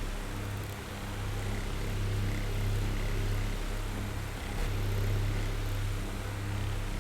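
Oscillating electric fan running: a low motor hum under a steady rush of air, softer through most of this stretch and swelling back up near the end as the fan head sweeps.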